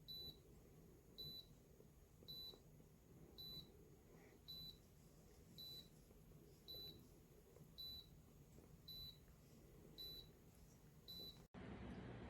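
Faint, short, high electronic beeps repeating steadily about once a second, eleven in a row, from a humidifier's control panel. They stop at an abrupt cut near the end.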